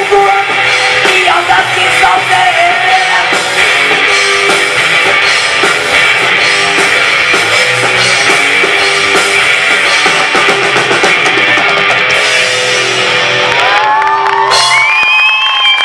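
Live rock band playing loud: electric guitar, drum kit and singing. About fourteen seconds in the drums and low end drop out, leaving a few held notes that bend and waver in pitch.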